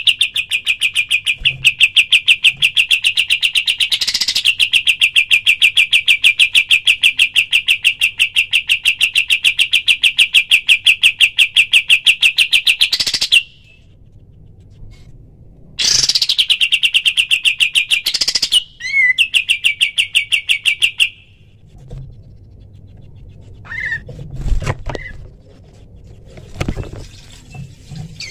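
A kapas tembak singing its rapid-fire 'tembakan' song: a long, fast, even train of repeated sharp high notes lasting about thirteen seconds, a pause of a couple of seconds, then a shorter burst of about five seconds, followed by a few scattered single calls.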